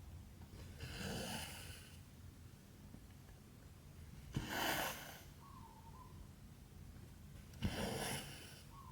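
Cross-stitch needle clicking through aida fabric, then cotton thread drawn through with a soft swish, about every three and a half seconds: three pulls.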